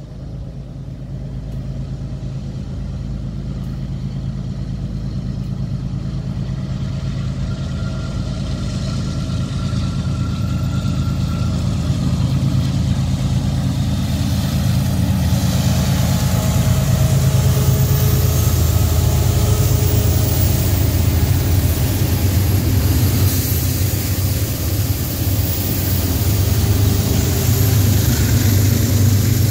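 Diesel freight locomotives hauling a double-stack container train up a steep grade, engines working hard under load and growing steadily louder as they approach. A higher hiss joins in about halfway through.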